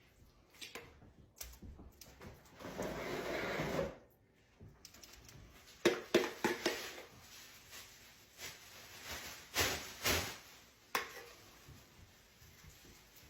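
A spoon scraping potato filling from a bowl, then several sharp taps and knocks of the spoon against the bowl and pan while potato skins are being stuffed.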